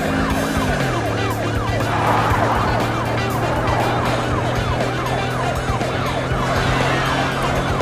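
Police siren in a fast yelp, its pitch rising and falling about two to three times a second without a break, over background music.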